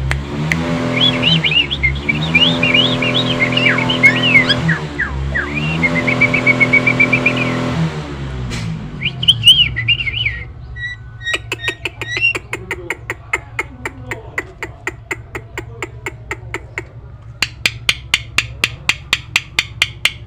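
Nias hill myna singing: quick warbled and whistled notes over a low droning hum for about the first eight seconds. Then a few loud whistles, followed by a long run of sharp, rapid clicks, with high chirps near the end.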